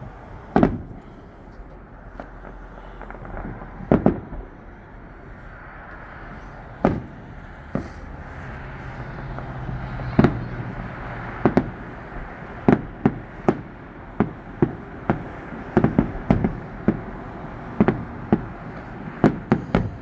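Fireworks shells bursting with sharp booms that echo. They are spaced a few seconds apart at first, then come faster in the second half, one to three a second.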